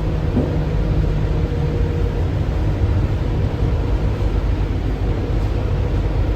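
Cabin noise of an Alstom Innovia APM 300R people mover running on its rubber tyres along the guideway: a steady rumble and hiss with a faint whine.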